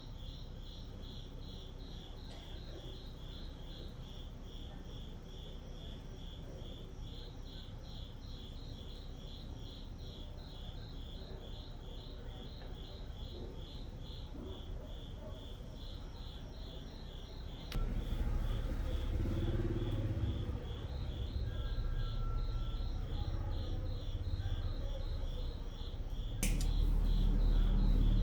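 An insect chirps steadily in a fast, even pulse of about three chirps a second. About two-thirds of the way in, a louder low rumble joins it. Near the end a sharp click comes, and the rumble grows louder after it.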